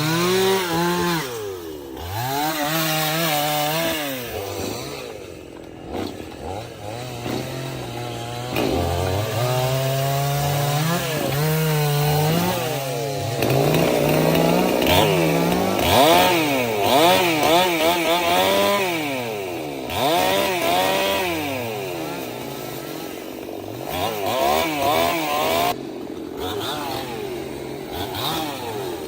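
Two-stroke chainsaw cutting wood, its engine revving up and down over and over as the throttle is worked, easing off briefly a couple of times.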